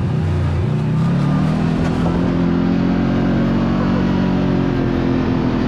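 Side-by-side UTV engine accelerating, its pitch rising about a second in and then holding steady at cruising speed.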